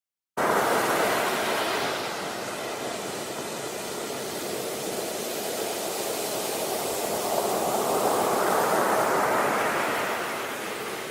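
Steady rushing water noise that starts abruptly about half a second in and swells again later on.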